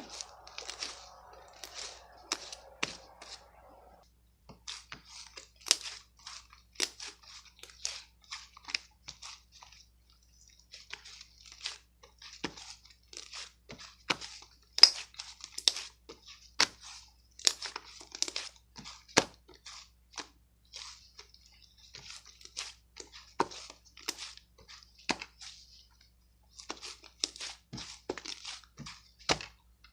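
A person chewing crunchy food close to the microphone: irregular sharp crunches, several a second, with brief pauses.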